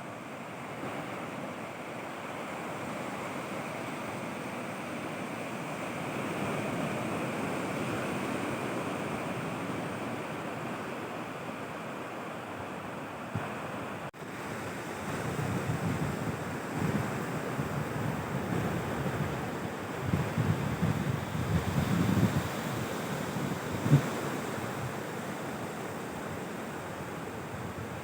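Sea waves washing onto a beach in a steady surf hiss, with wind gusting on the microphone in low rumbling buffets through much of the second half.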